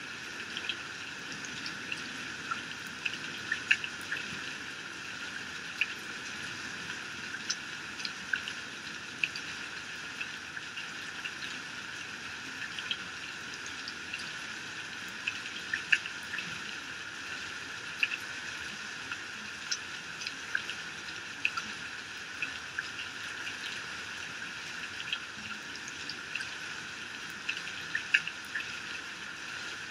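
Heavy rain falling: a steady hiss of downpour with frequent sharp drip and splash sounds scattered through it.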